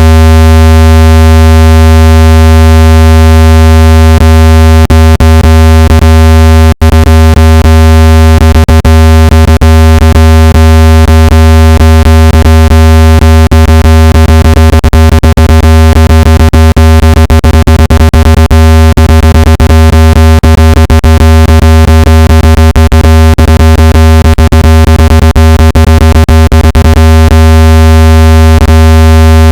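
Water-eject speaker-cleaning tone: a loud, steady, low synthesized hum with many overtones, meant to vibrate water out of a phone speaker. Short clicks crackle through it, and it drops out for an instant about seven seconds in.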